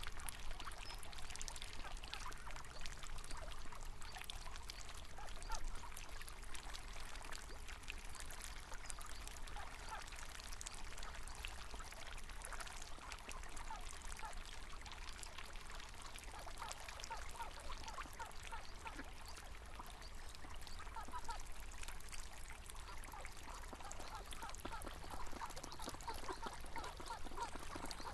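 River water trickling and burbling steadily, with ducks quacking now and then.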